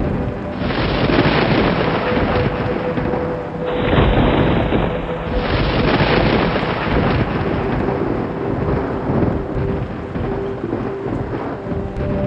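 Rolling thunder rumbling continuously over steady rain, swelling loudest about four seconds in.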